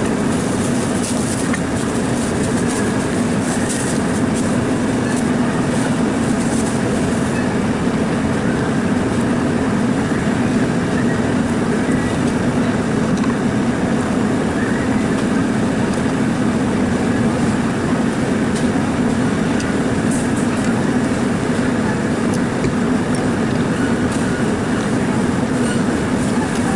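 A steady, unbroken machine drone: a constant hum over a continuous hiss, without change in level or pitch.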